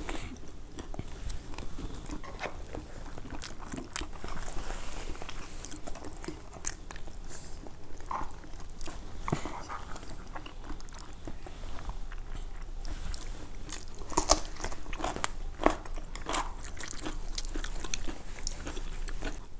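Close-miked chewing and crunching of food, with scattered sharp clicks of a spoon and chopsticks against bowls.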